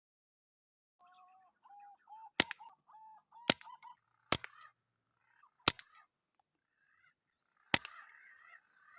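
Green pigeons giving wavering whistled calls, broken by five sharp air-rifle cracks spaced about one to two seconds apart. A steady high-pitched whine runs underneath.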